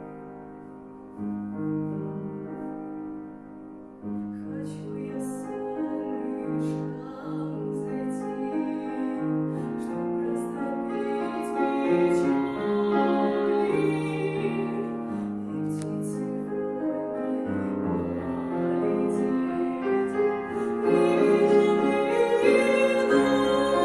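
Piano accompaniment alone at first, then a female voice begins singing in classical style about four seconds in, with vibrato, over the piano. The music grows louder near the end.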